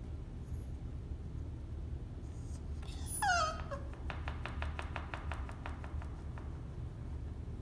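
Cavalier King Charles spaniel giving one short whine that falls in pitch, a half-yawning whine to be let out of its cage, about three seconds in. A quick run of faint clicks follows for a couple of seconds, over a steady low hum.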